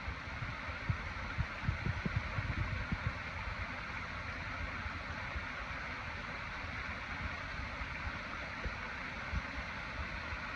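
Steady rushing of running water, like a stream, with a few low thumps in the first three seconds.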